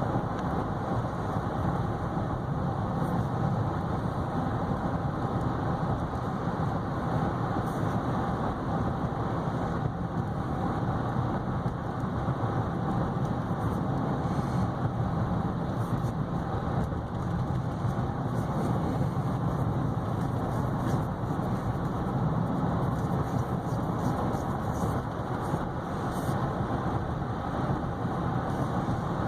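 Steady driving noise inside the cabin of a 2015 GMC Yukon Denali XL cruising down the road: a constant hum of engine and road noise with no change in speed.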